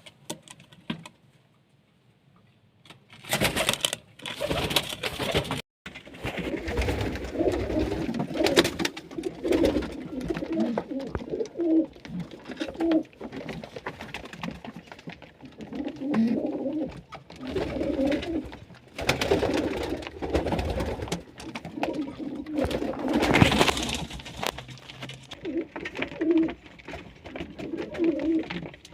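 Pigeons cooing over and over in low, repeated calls. The calls begin a few seconds in, after a near-silent start.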